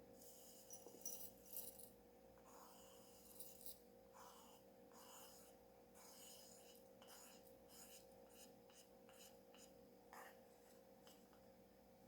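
Faint clinks and scrapes of a tea set being handled, many small taps in irregular succession, over a steady low hum.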